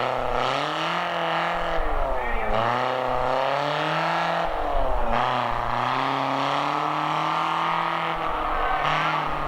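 Monster truck's big engine under hard acceleration. Its pitch climbs over about two seconds, drops back, and climbs again, three times over.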